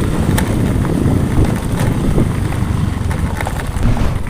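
Wind buffeting the microphone heavily, with a dense low rumble underneath and a few scattered clicks.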